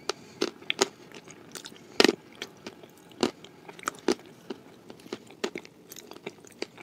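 Close-miked chewing of a very hard cookie: sharp, irregular crunches about twice a second, the loudest about two seconds in.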